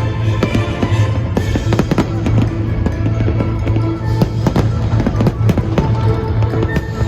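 Fireworks going off in rapid, irregular bangs and crackles, over loud accompanying music with held tones and a steady bass.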